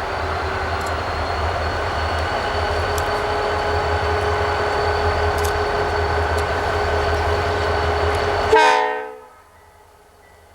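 Diesel-hauled freight train running by with a steady rumble and a horn held on a steady tone. About eight and a half seconds in, the sound cuts off abruptly, leaving only faint background.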